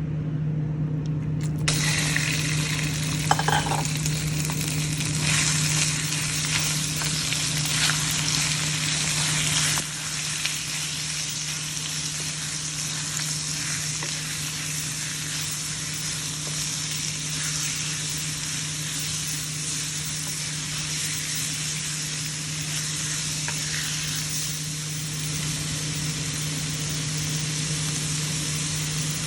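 Stir-fry ingredients sizzling in a hot pan. The sizzle starts suddenly about two seconds in and carries on steadily, easing a little after about ten seconds.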